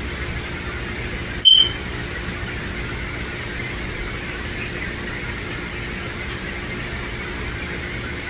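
A steady high-pitched trill with a fine, fast pulse, typical of night insects, broken about a second and a half in by a brief dropout and a short louder chirp.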